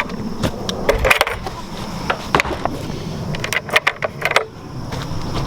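Goat water buckets clanking and rattling as they are handled, a series of sharp knocks and clatters over a steady low noise.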